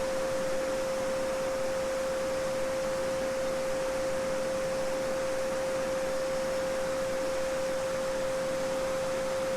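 A steady 528 Hz solfeggio sine tone, holding one pitch, over the even rushing and babbling of a small stream.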